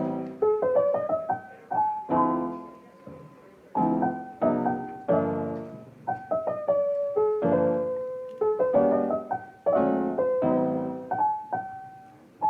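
Solo piano music: soft chords and single melody notes, each struck and left to fade.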